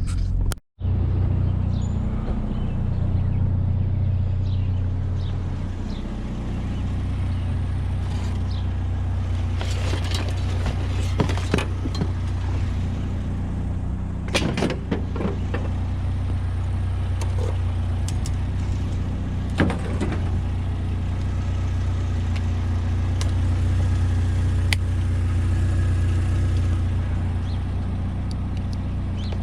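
Pickup truck engine and road noise heard from inside the cab while driving: a steady low hum, with a few brief clicks and rattles.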